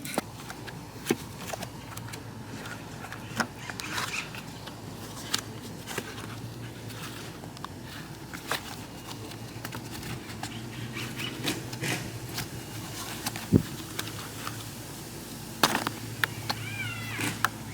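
Scattered clicks and knocks of hand tools on metal over a steady low hum, with a louder thump about two-thirds of the way through. A cat meows once near the end.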